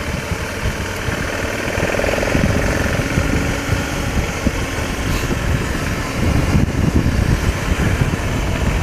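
Single-cylinder engine of a BMW F650 GS motorcycle running steadily, a thumper.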